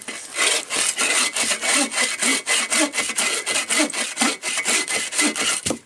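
A hand saw cutting wood in quick, even strokes, several a second, that stop abruptly near the end.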